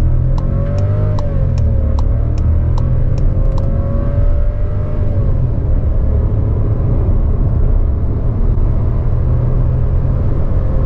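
Volkswagen Virtus Highline's 1.0 TSI three-cylinder turbo engine, heard from inside the cabin, accelerating hard from a standstill. The engine note rises in pitch and drops at upshifts of the six-speed Tiptronic automatic, about a second and a half in and again about five seconds in. A quick, regular ticking runs through the first three or four seconds.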